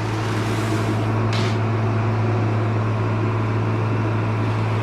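Steady low machine hum from the grain-handling equipment, with three short scraping rasps of a shovel working through shelled corn on the bin floor.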